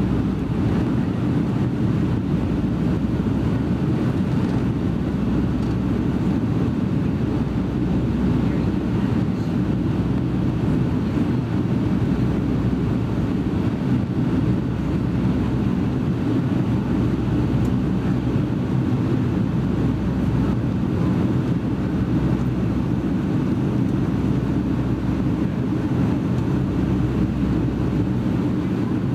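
Cabin noise inside a Boeing 757-200 in flight: jet engines and airflow heard from a window seat, a steady, even noise mostly low in pitch with no change.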